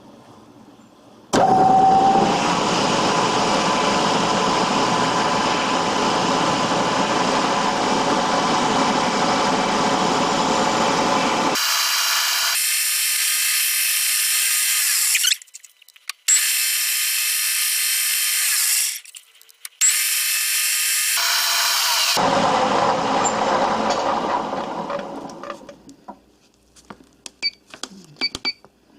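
Vertical milling machine's spindle switched on and running, with a 7 mm drill boring a hole in an aluminium test piece. It starts suddenly about a second in, runs steadily, cuts out briefly twice midway, and winds down near the end, followed by a few light clicks.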